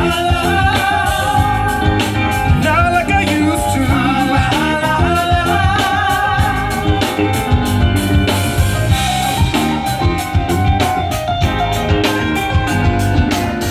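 Live band playing, with a singing voice over guitar, bass and a drum kit keeping a steady beat.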